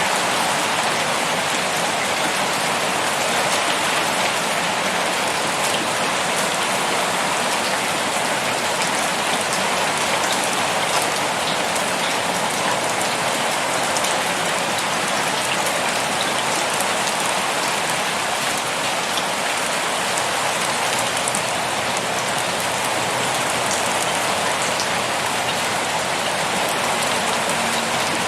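Heavy rain pouring steadily, a dense even hiss with countless fine drop ticks on surfaces.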